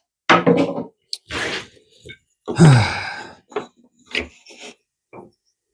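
A man's voice making wordless sounds: a short grunt, a breathy exhale, then a louder sigh or groan that falls in pitch, with a few faint clicks after it.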